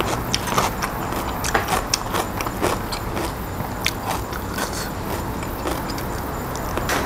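A person chewing and eating from close up: wet mouth clicks and smacks, soft food noises from a mouthful of sticky rice and raw minced beef larb, scattered irregularly over a steady low hum.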